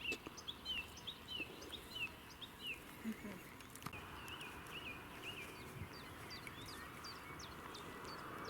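Small songbird calling: a quick series of short, high, falling chirps, about two or three a second at first, then fainter, over steady background noise.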